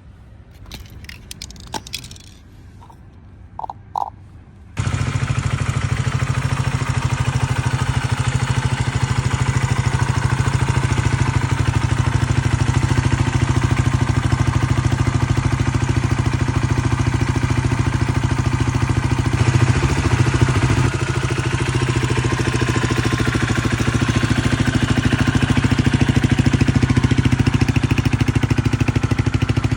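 Honda XL250S single-cylinder four-stroke engine running steadily. It comes in abruptly about five seconds in, after a few faint clicks and scrapes.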